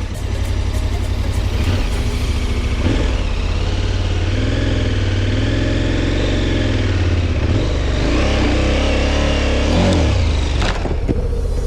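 Motorcycle engine running, its pitch rising and falling as the throttle is opened and eased through the middle stretch. A sharp click comes near the end.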